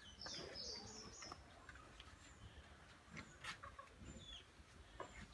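Faint farmyard bird chirps: a quick run of short high chirps in the first second, then a few scattered single chirps.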